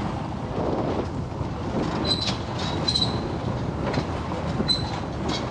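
A vehicle in motion, running with a steady rattling rumble, with brief high squeals about two, three and nearly five seconds in and a few sharp clanks.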